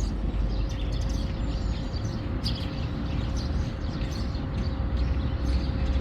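Small birds chirping, many short scattered calls, over a steady low rumble.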